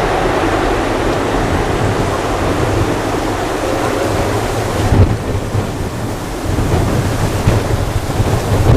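Airbus A330 airliner's jet engines, a loud continuous rumble with a sharp peak about five seconds in and a brief dip after it.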